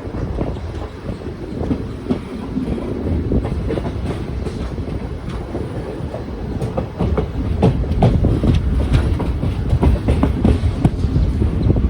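Diesel-hauled passenger express rolling through on the rails: a steady low rumble with wheels clacking over rail joints, the clacks growing louder and more frequent about seven seconds in.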